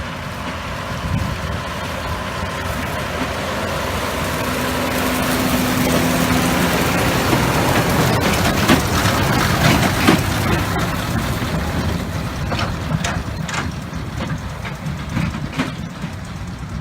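New Holland T7225 tractor running with a New Holland BigBaler 1290 big square baler in tow, a heavy diesel sound that swells louder toward the middle and then eases off, with scattered sharp knocks in the second half.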